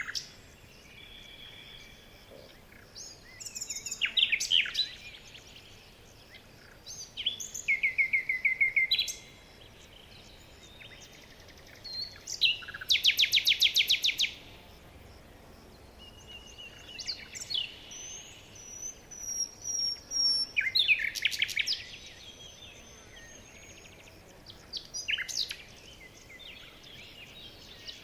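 Several songbirds singing in turn, a new phrase every few seconds. One is a run of falling notes, one a fast, loud trill about halfway through, and one a thin high whistle, over a faint steady background hiss.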